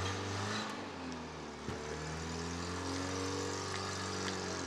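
A car engine running and revving, its pitch sagging and then climbing again in the second half.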